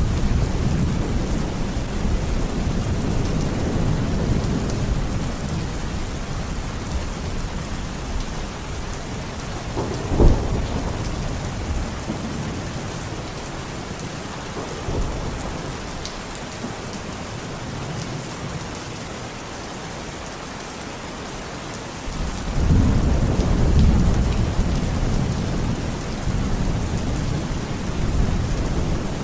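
Steady rain falling, with thunder rumbling. There is a sharp crack of thunder about ten seconds in, and a fresh, louder rumble comes in suddenly about two-thirds of the way through.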